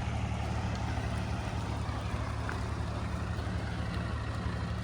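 Diesel engine of heavy farm machinery running steadily under load, a constant low drone with machinery noise above it.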